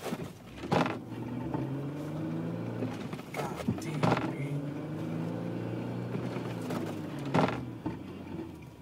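Car engine running steadily, with the car stuck in deep snow. Four sharp knocks sound over it.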